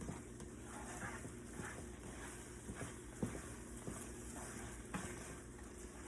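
Creamy noodle sauce sizzling softly in a pan, with a few light taps of a utensil as it is stirred.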